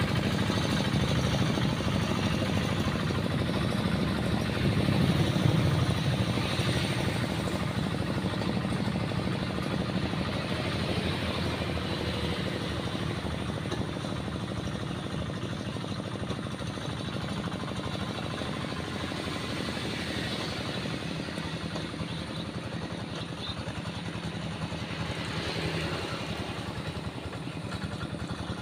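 Tractor engine running steadily while plowing a rice paddy. It is loudest about five seconds in, then slowly fades as it draws away.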